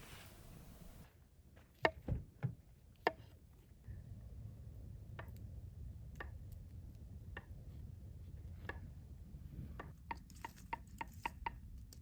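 A knife chopping food on a cutting board: single unhurried cuts at first, then a quicker run of chops near the end.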